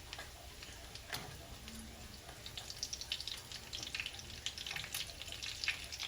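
Sardine fritters frying in a pan of oil, a steady sizzle with fine crackling that grows denser from about halfway through. There is a single sharp knock about a second in.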